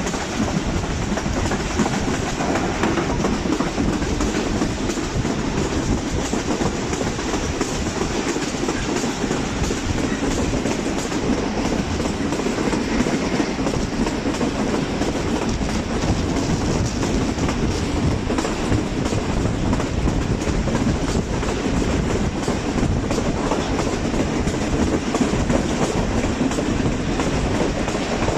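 Passenger train coach running steadily along the track, its wheels clattering on the rails, heard from an open coach window.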